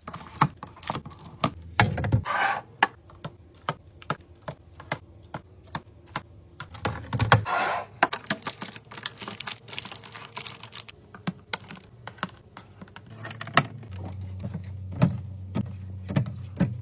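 Many quick, irregular clicks and taps of containers and items being handled and set down in a fridge, with two longer swishes, about two and seven seconds in.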